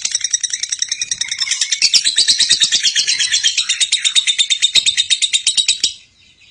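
Lovebird's ngekek: a long, fast chattering run of high chirps, about ten a second, that breaks off shortly before the end.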